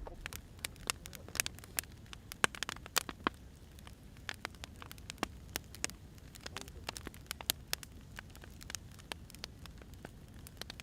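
Wood fire burning: irregular sharp crackles and pops of firewood over a low steady rumble, with a cluster of louder snaps a second or two in.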